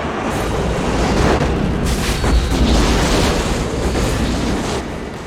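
Heavy rumbling and booming of a volcanic eruption, swelling in surges through the middle.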